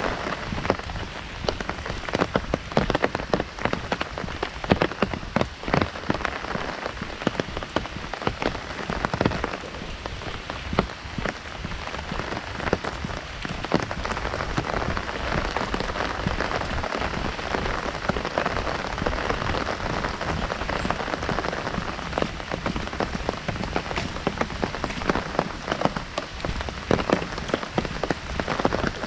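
Heavy rain drumming steadily on an open umbrella overhead, a dense patter of many small drop impacts.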